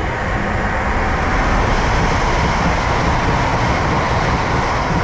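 A train running past on the track: a loud, steady rush of wheel and rail noise that swells a little over the first two seconds.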